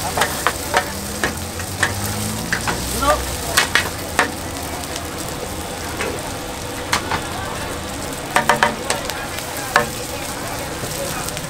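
Food frying and sizzling, with sharp clinks of utensils scattered through it, bunched about three to four seconds in and again between seven and ten seconds.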